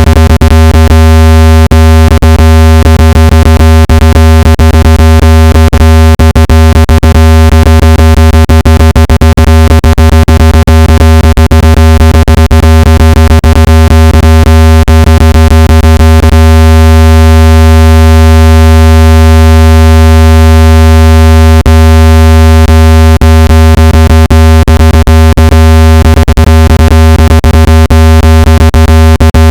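Loud, steady, deep electronic buzzing tone rich in overtones, with frequent brief clicks that grow sparser after about sixteen seconds: a speaker water-ejection tone, played at full volume so the speaker cone vibrates and pushes water and dust out of a phone speaker.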